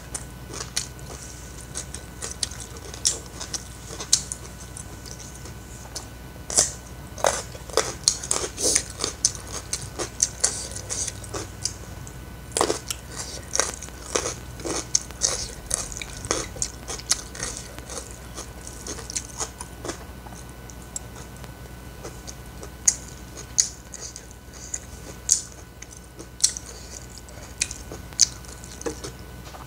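A person chewing food with wet mouth smacking close to the microphone: many sharp, irregular clicks that come thickest in the middle and again near the end, with a sparser stretch in between.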